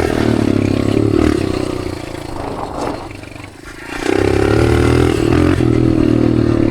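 Dirt bike engine with an aftermarket exhaust pulling under throttle, easing off about two seconds in and coming back on the throttle about four seconds in.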